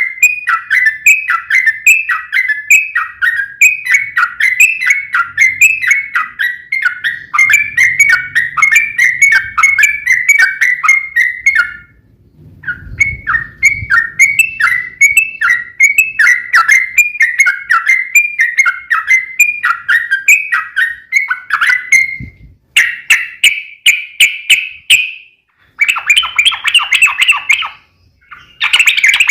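Yellow-vented bulbul (trucukan) singing a long, fast chattering song of quick repeated notes, with a short break about twelve seconds in. Near the end the song comes in shorter, denser bursts.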